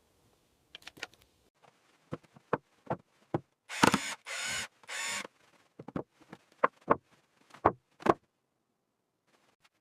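Scattered light clicks and taps of objects being handled, with three short scraping or rustling sounds about four to five seconds in.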